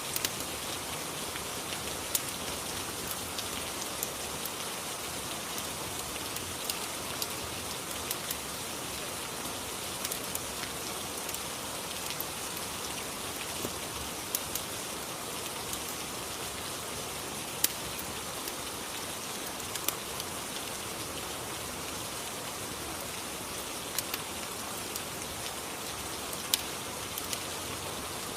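Steady rain ambience, with a fireplace's sharp crackles popping out every few seconds.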